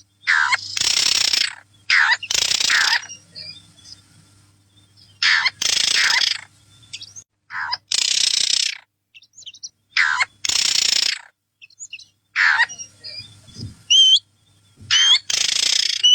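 A small bird calling: harsh, raspy calls about a second long, repeated every one to two seconds, with a few short whistled notes near the end.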